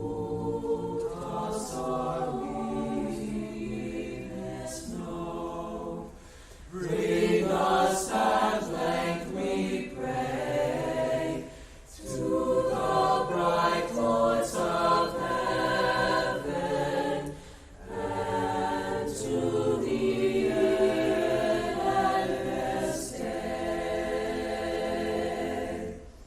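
Student choir singing a cappella, in phrases separated by brief pauses about every six seconds.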